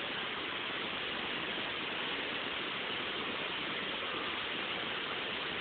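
Waterfall: the steady rush of falling water, an even hiss that holds level without a break.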